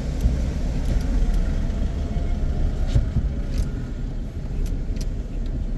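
A car driving, with a steady low rumble of engine and tyres and a few sharp clicks scattered through it.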